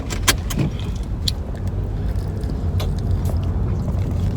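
A car running with a steady low rumble, heard from inside, with a few sharp clicks and taps over it.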